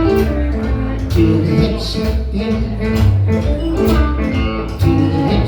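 Live blues band playing an instrumental passage, with guitar to the fore over a strong bass line and steady beats.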